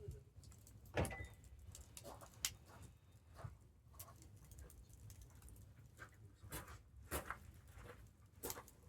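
Wood campfire crackling, with irregular sharp pops over a low steady rumble; the loudest pops come about a second in and about seven seconds in.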